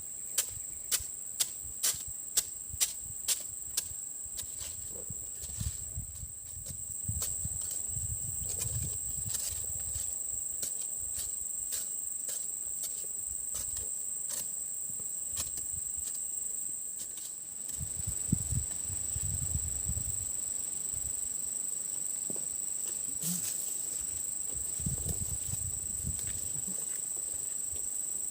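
Insects keeping up a steady high-pitched drone. In the first few seconds there is a run of sharp clicks, about two a second, and low rustling and handling noise comes and goes.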